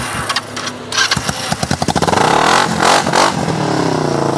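Motorcycle engine starting: it catches about a second in, revs up briefly, then falls back to a steady idle.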